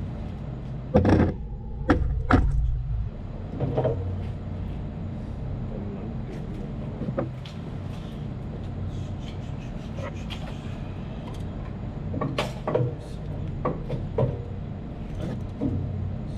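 Steady machinery hum from an air-conditioning plant, with scattered sharp metallic knocks and clanks from tools or parts being handled, the loudest about a second in, again a second later, and at the very end.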